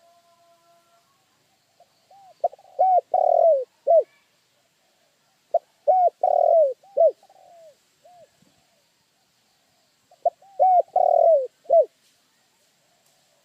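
Spotted dove cooing: three phrases of several short, arched coo notes, each phrase with a longer rolling note in the middle, spaced about four seconds apart.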